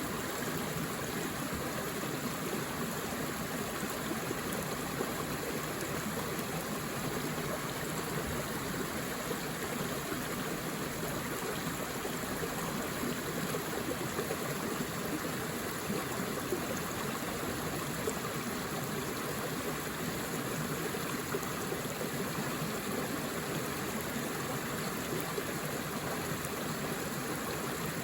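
Forest river flowing: a steady, even rush of water over stones.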